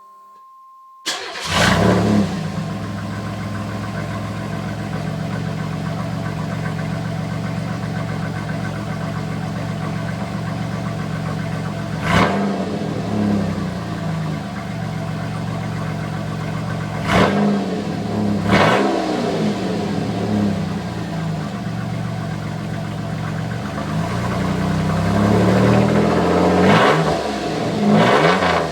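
1987 Camaro's 2.8 L V6 running through a straight-piped exhaust with no mufflers: it comes in abruptly about a second in with a short flare, then settles to a steady idle. It is blipped several times, each rev rising and falling in pitch, with a quicker run of revs near the end.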